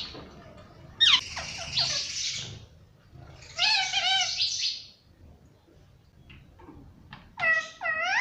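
Indian ringneck parakeet chirping and screeching: a burst of sharp chirps about a second in, a longer wavering call around the middle, and two more calls that dip and rise near the end.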